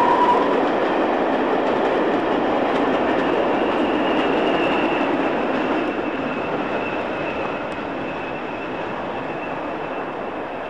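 A train of coaches running past on the rails, its running noise slowly fading as it draws away, with a faint high ringing in the second half. A held high note dies away within the first second.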